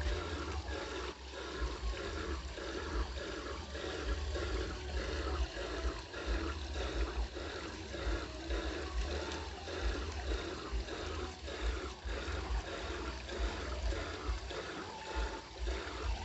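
Water running and trickling steadily, with a low rumble underneath.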